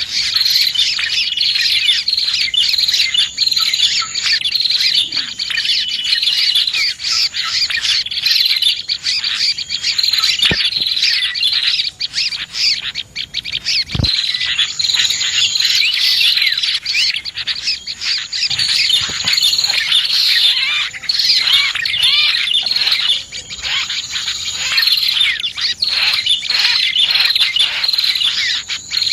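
A dense, continuous chorus of small birds chirping and calling rapidly, in a lure recording of prinias and other small birds. A thin, high, steady buzz comes and goes behind the chirping.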